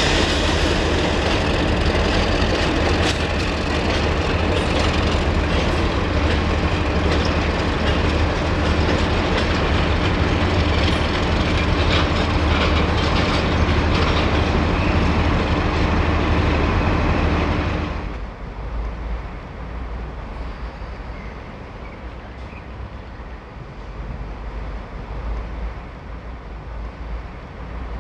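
A train running close by, with wheel clatter over the rails and a loud, steady low drone. About eighteen seconds in, the sound drops sharply to a much quieter rumble.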